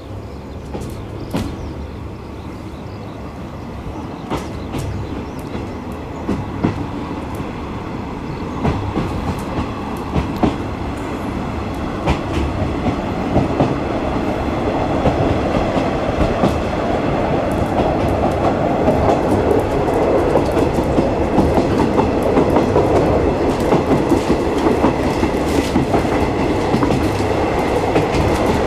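Clickety-clack and running rumble of a 50-series passenger coach hauled by a DD51 diesel locomotive, heard from inside the carriage. The clicks of the wheels over rail joints come more and more often and the rumble grows louder as the train picks up speed.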